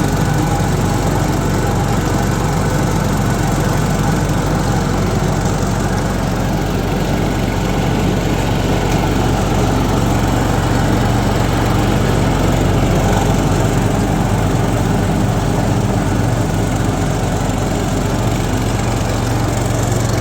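An engine running steadily at an even speed, a constant loud drone with no change in pace.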